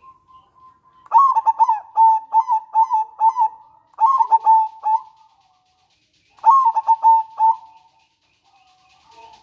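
Zebra dove (perkutut) calling in three bursts of rapid, staccato cooing notes, each note dipping slightly in pitch. This is the perkutut's song, a call that sets off other perkutut.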